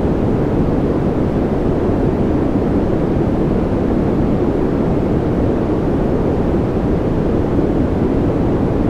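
Steady, unchanging noise with a deep, rumbling weight and little hiss on top, with no separate drops, gusts or other events: a continuous sleep and concentration noise track.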